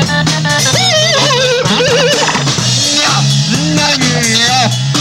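Live rock band playing: drums and bass keep a steady beat under a lead line of high, wavering notes with wide vibrato.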